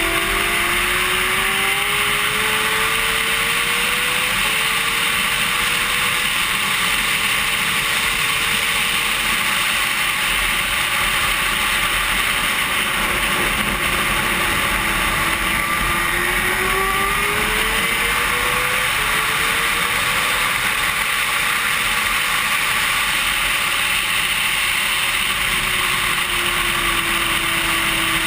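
Racing sport bike at speed, recorded onboard: heavy wind rush over the microphone. Under it the engine climbs in pitch through several upshifts, falls away as the bike slows, then climbs through the gears again and falls once more near the end.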